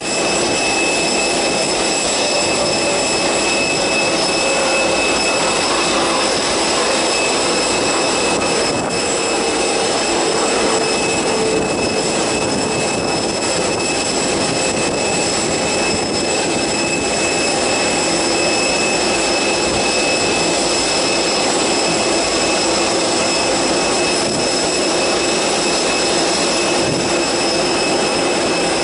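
Airbus A330 jet engines running, a steady rush with several high, constant whining tones and a lower tone that slowly falls in pitch early in the clip.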